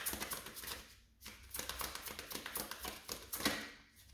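Tarot cards being shuffled by hand, a rapid patter of card clicks in two runs, with a short break about a second in.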